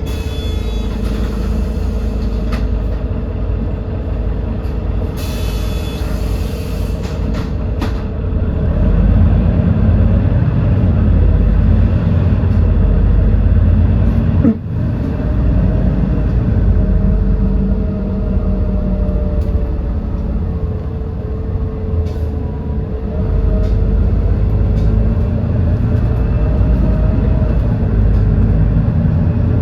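Edison Motors Smart 110G city bus's GX12P natural-gas engine running while the bus drives, heard from inside the cabin. It grows louder about eight seconds in and dips sharply for a moment about halfway through, with a steady whine running underneath.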